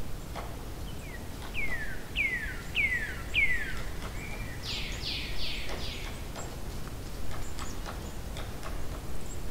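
A songbird singing: four clear whistled notes, each falling in pitch, then a quicker phrase of four fuller falling notes, over steady low background noise.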